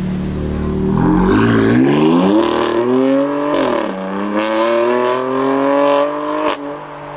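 A performance car's engine accelerating hard away: revs climb, drop once about four seconds in as it shifts up, then climb again before the driver lifts off about six and a half seconds in. Sharp exhaust cracks and pops sound over it.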